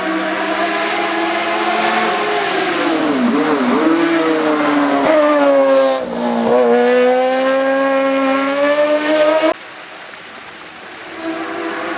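Race car engine at full throttle on a hillclimb, its pitch dropping sharply on quick lifts or gear changes about three to four seconds in and again about six seconds in, then climbing again. The engine sound cuts off suddenly about nine and a half seconds in, and another engine builds up near the end.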